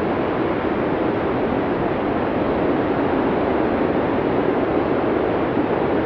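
Arctic blizzard wind from a classic Cinesound sound-effects recording: a steady, dense rush of storm wind with no gusts or breaks, heaviest in the low-middle range.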